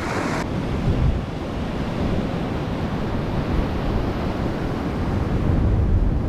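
Ocean surf washing against a rocky shore, a steady low rumble, with wind buffeting the microphone. A brighter hiss drops away about half a second in.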